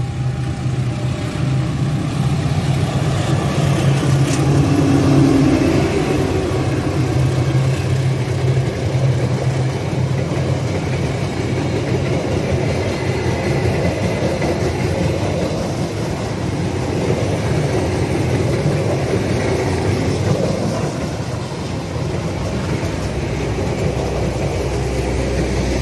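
A diesel-electric locomotive passes with a steady engine hum for the first several seconds, then a long rake of stainless-steel passenger coaches rolls by with a continuous rumble of wheels on rail. A single sharp clunk comes about four seconds in.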